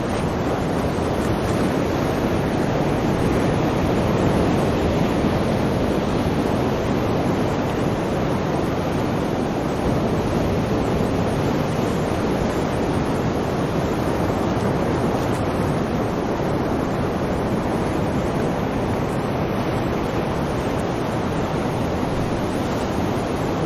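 Sea surf washing in continuously, a steady rushing noise that swells slightly a few seconds in.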